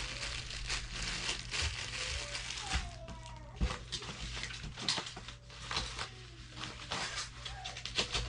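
Parts and packaging of a boxed RC airplane being handled and packed away: rustling with a string of knocks and clicks, and a few thin squeaks that waver in pitch.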